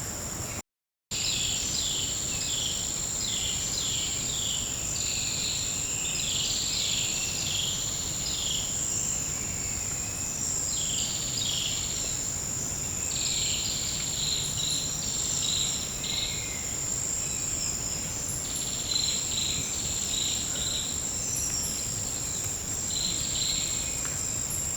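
Forest insect chorus: one insect holds a steady, high-pitched trill while others chirp in rapid, repeated bursts. The sound cuts out completely for a moment about a second in.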